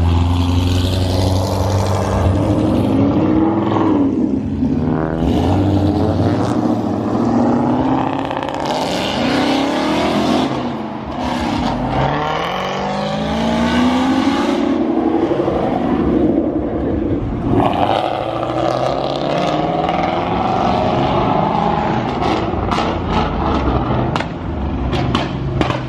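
Car engines revving and accelerating past, one after another, their pitch rising and falling with each rev over a steady low engine drone. A run of short sharp clicks comes near the end.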